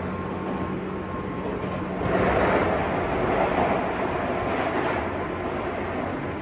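Interior running noise of a JR West 201 series electric commuter train, heard inside a motor car: a steady rumble of wheels on rail with a low motor hum. About two seconds in the rumble swells louder, then eases off over the next few seconds.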